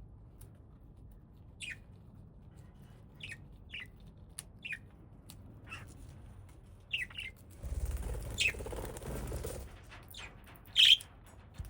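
Small pet parrots giving short, scattered chirps about once a second, with the loudest one near the end. A rustling, fluttering noise lasts about two seconds just past the middle.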